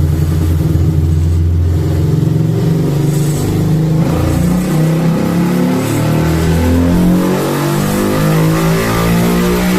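2022 Honda CB 250F Twister's single-cylinder engine, bored out to 270 cc with a Jet Motos kit, pulling under load on a dynamometer, its revs climbing steadily.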